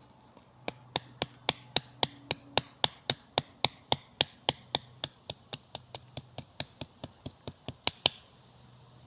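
A blade chopping notches into a stick of wood in quick even strokes, about three to four a second, stopping near the end.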